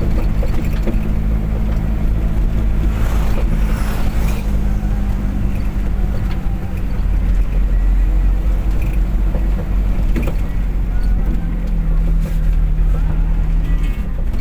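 Car engine running at a steady speed under heavy road rumble while driving. There is a brief whoosh about three seconds in.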